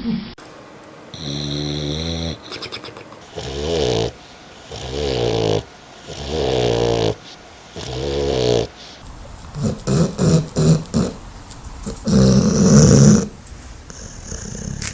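Dog snoring: one drawn-out snore, then four snores about every one and a half seconds, then a run of short quick snores and one loudest snore near the end.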